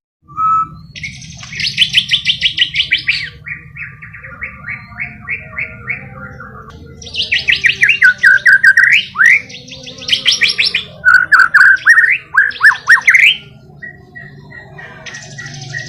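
White-rumped shama (murai batu) singing: bouts of rapid repeated notes and quick downward-sweeping whistles, loudest in a long burst in the second half, over a faint steady low hum.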